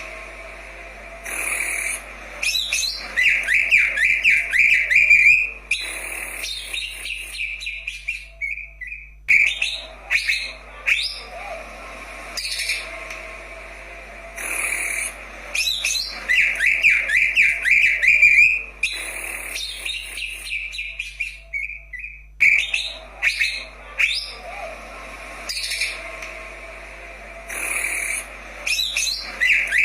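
Green leafbird (cucak ijo) singing: loud, sharp whistled notes and bursts of fast trilling, with the same phrase coming back about every thirteen seconds.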